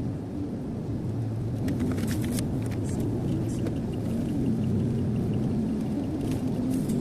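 Car interior road noise at speed, a steady low tyre-and-engine rumble, with a few brief hissing swishes and, from about three seconds in, a faint regular ticking.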